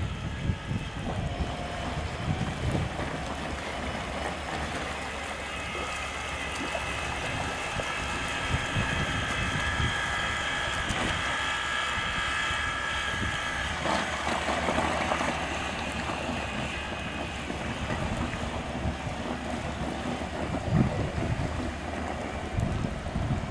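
Prototype brushless electric outboard motor and its gearbox running under power with a steady whine, strongest around the middle and fading in the second half, while wind buffets the microphone.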